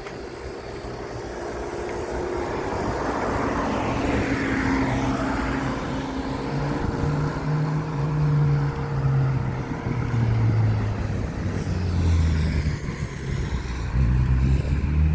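A motor vehicle's engine running, getting louder over the first few seconds, its low pitch shifting up and down as it changes speed.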